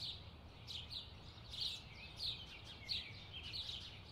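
Songbird chirping: short, high notes repeated every half second or so, over a faint steady low rumble of background noise.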